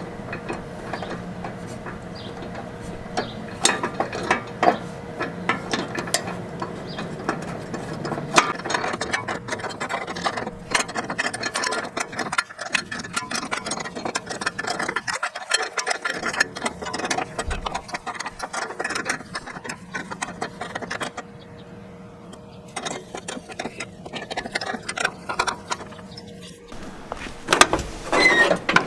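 Hand tools working on a John Deere L110 riding mower's deck lift linkage: many small metallic clicks and clinks in an irregular, near-continuous run. The clicking thins out about two-thirds of the way through, and a few louder knocks come near the end.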